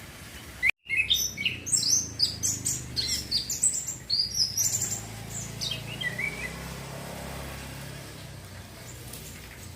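Young male orange-headed thrush singing a rapid run of varied high twittering and whistled phrases, still practising its song. The song starts about a second in and stops after about six seconds.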